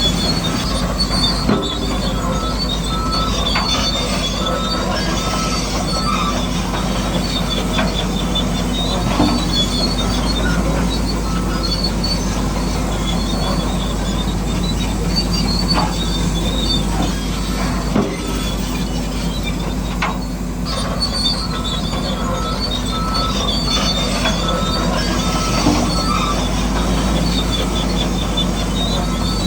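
Radio-controlled model construction machinery running, its electric motors and gearboxes whining steadily. A high beeping comes and goes twice.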